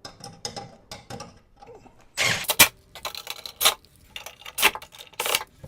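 Screws being tightened to secure a ceiling fan to its mounting bracket, with metal hardware handled: a run of irregular clicks and rattles, with several louder short scraping bursts from about two seconds in.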